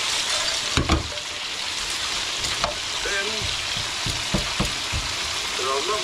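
Panko-coated beef burgers frying in beef dripping, with chips in a second pan: a steady sizzle. Sharp knocks sound over it, the loudest about a second in as a frying pan is set down on the gas hob's grate, then lighter clacks as metal tongs turn the chips.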